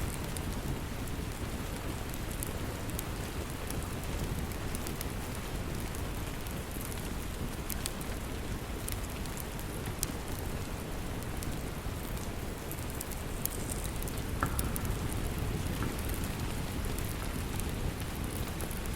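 Steady rain, with a log fire crackling in short, scattered pops.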